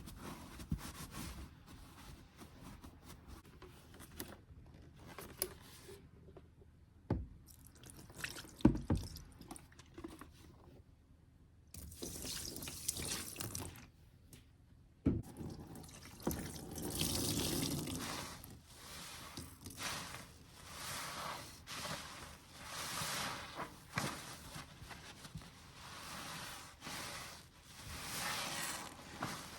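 A wet, soapy sponge squeezed by hand again and again, squelching and dripping water. In the second half the squeezes come as a steady run of wet swells every second or two. A few sharp knocks sound in the first half.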